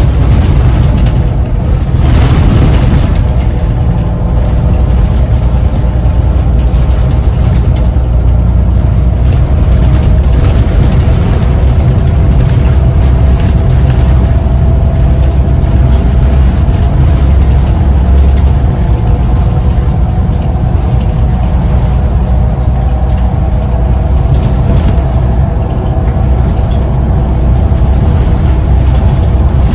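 Scania CN94UB bus's 9-litre five-cylinder diesel engine running under way, a loud steady low rumble with a steady drone over it. A brief burst of noise about two seconds in.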